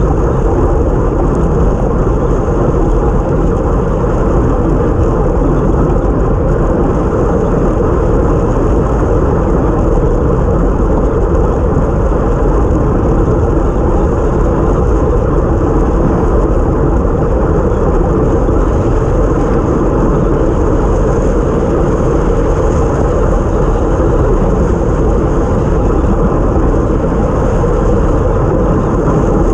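Steady loud wind rush over the microphone of a camera mounted on a time-trial cycle at racing speed, mixed with the hiss of tyres on a wet road.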